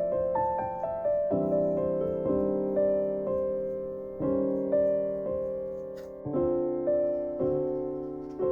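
Slow, gentle piano music: soft chords and single notes struck about once a second, each ringing out and fading before the next.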